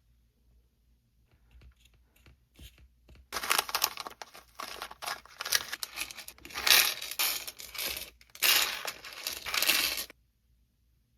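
Packaging being torn open and crinkled by hand: a few light handling clicks, then about seven seconds of loud crinkling and tearing that stops abruptly.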